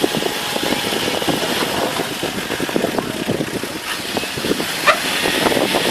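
An engine running steadily, with a brief high squeak near the end.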